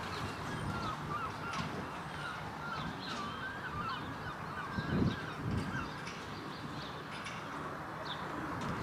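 Birds chirping in a quick, wavering twitter for several seconds, over a steady outdoor hiss. Gusts of wind buffet the microphone about halfway through.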